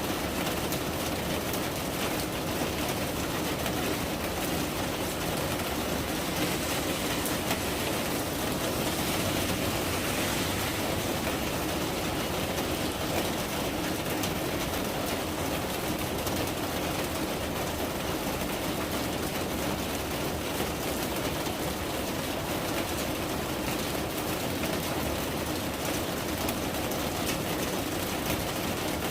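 Steady rain falling, an even, unbroken wash of sound at a constant level.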